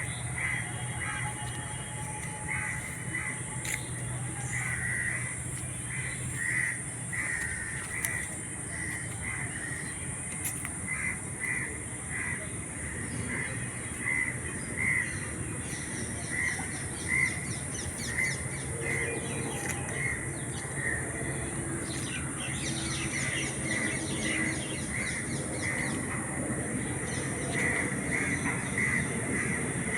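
Birds calling, short calls repeating about once or twice a second, over a steady high hiss.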